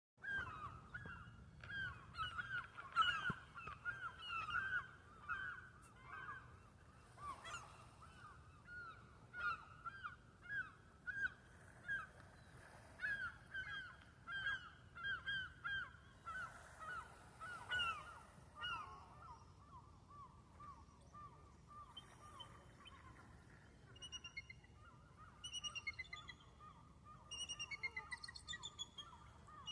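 Birds calling: a dense run of rapid, repeated honking calls, joined near the end by series of high, thin, falling chirps.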